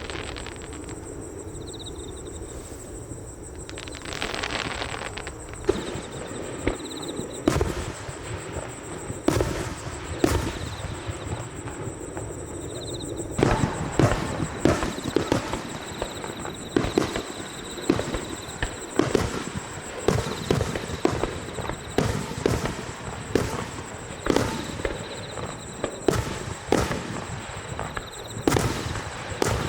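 Aerial fireworks bursting: at first a few separate bangs, then from about 13 seconds in a dense, rapid run of bangs and crackling.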